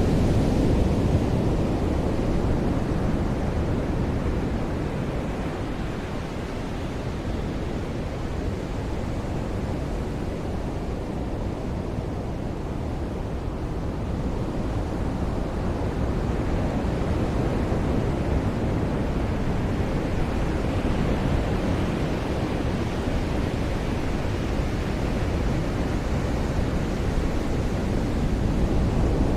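Ocean surf on a beach: a continuous rush of breaking and washing waves that swells and eases slowly over many seconds.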